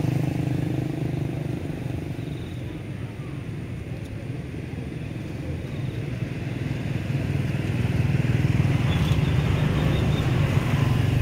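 A motor vehicle engine running, quieter in the middle and louder again from about eight seconds in, over a steady rush of fast-flowing floodwater.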